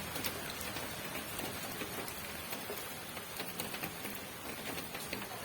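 Rain falling steadily, a dense hiss with many separate drops ticking on a hard surface.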